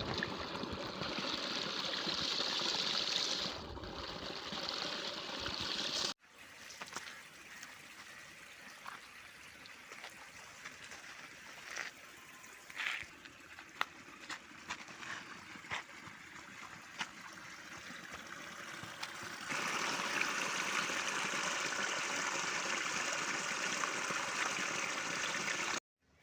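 Water trickling, in stretches that change abruptly in level, with scattered clicks in the quieter middle part.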